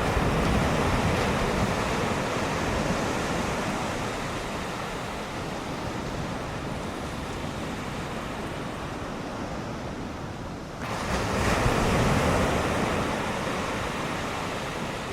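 Ocean surf from typhoon swell: waves breaking and washing in as a steady rush, with a fresh wave surging up about eleven seconds in and then fading.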